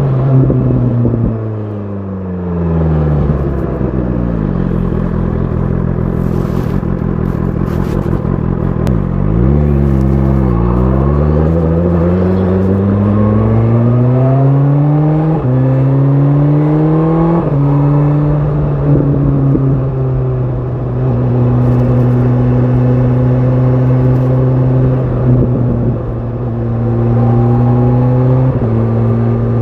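BMW S1000 RR's inline-four engine running through an Akrapovic exhaust under riding load. Its note falls as the bike slows over the first few seconds, then rises under acceleration about ten seconds in, with two quick gear changes around the middle, and holds a steady cruising pitch for most of the rest.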